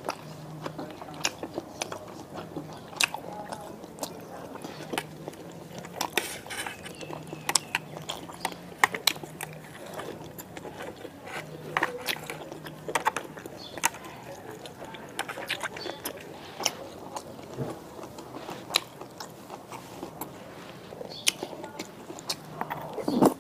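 Close-miked chewing and crunching of cooked vegetables such as cauliflower and broccoli in spicy noodle sauce, with sharp clicks and taps scattered through, some from chopsticks and a spoon on a metal tray.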